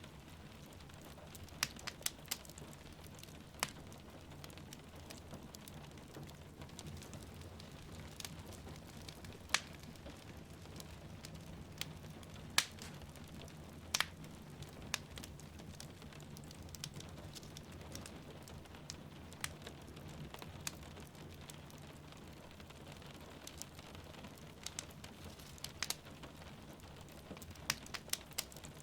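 Wood fire crackling in a fireplace with sharp, irregular pops, over a steady bed of rain falling outside.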